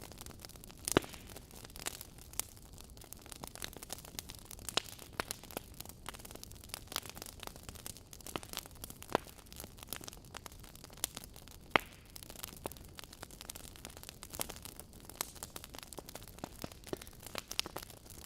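Wood fire crackling in a fireplace: irregular sharp pops and snaps over a soft steady hiss, with two louder snaps, about a second in and about two-thirds of the way through.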